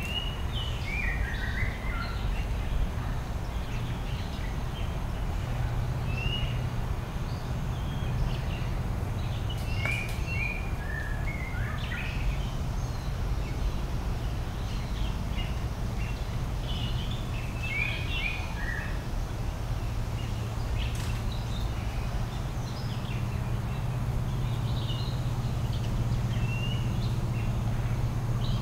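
Birds chirping and calling on and off, short repeated chirps, over a steady low background rumble.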